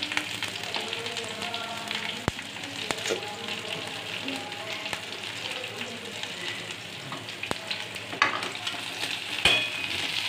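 Chopped onions and garlic sizzling steadily in hot oil in a steel kadhai, with a few sharp clicks, the loudest near the end.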